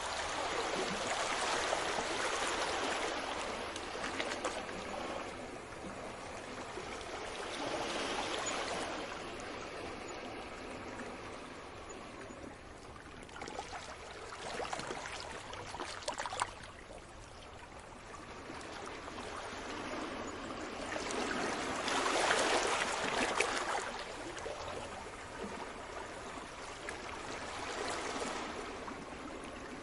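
Sea waves washing onto the shore, the surf swelling and falling back roughly every seven seconds.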